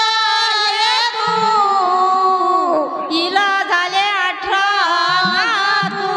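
An elderly woman singing a Marathi bhajan, her voice ornamented and wavering in pitch over steady held accompanying tones.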